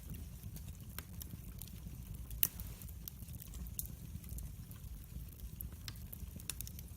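Log fire in a fireplace crackling: scattered sharp pops and snaps over a low, steady rumble of the flames, with one louder pop about two and a half seconds in.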